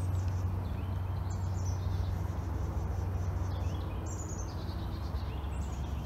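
Songbirds giving short, high chirps every second or so over a steady low background rumble.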